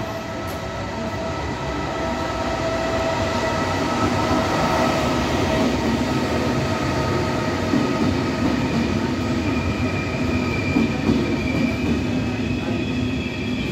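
TPER Vivalto double-deck regional train pulling into a station. Its rumble grows louder over the first few seconds over a steady whine. From about ten seconds in, a high, steady squeal of the wheels starts up as it brakes to stop.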